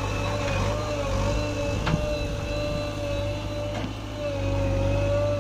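Diesel engine of heavy earthmoving or farm machinery running steadily, with a few faint clunks, and getting a little louder near the end.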